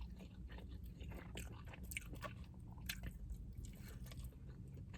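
A person chewing a mouthful of food close to the microphone, with faint scattered wet mouth clicks.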